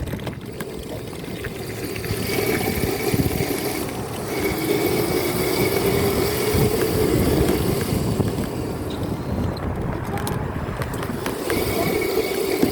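Dirt bike engine running steadily while being ridden, its pitch holding fairly even with a slight rise in the middle, under a constant rush of wind and road noise.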